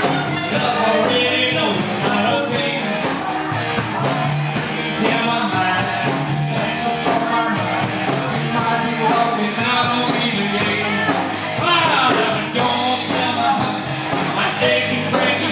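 Live band playing an upbeat rock-and-roll dance number, with guitar and singing.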